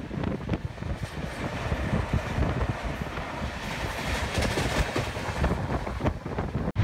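New Delhi–Kalka Shatabdi Express running at speed: a steady rattle of wheels on the track, with wind rushing past the microphone at the open coach door.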